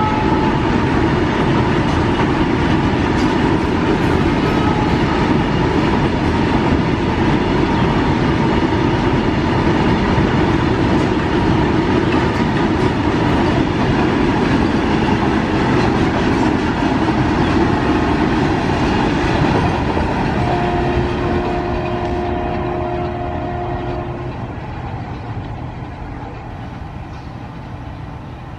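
A long freight train of tank wagons running past, its wheels rumbling steadily on the rails. The sound fades from about twenty seconds in as the last wagons and the brake van go by. A steady tone sounds for a few seconds near the fade.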